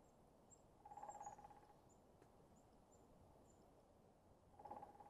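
Woodpecker drumming: two short, rapid rolls of pecks, about a second in and again near the end, on wood that sounds like a dead, hollow tree. Faint high bird chirps sound in between.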